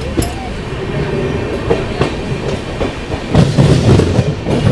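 Jan Shatabdi Express LHB passenger coach running on the track: a steady rumble with the wheels clattering over rail joints. There are scattered knocks, and the running noise grows louder and rougher for about a second near the end.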